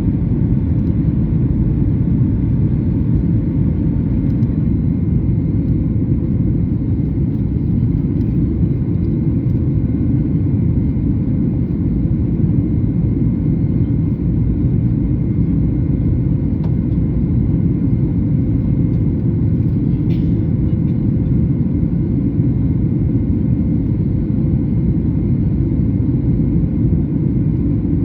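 Steady low cabin rumble inside a Boeing 737 MAX 8 airliner, its CFM LEAP-1B engines running, with a faint steady hum over it.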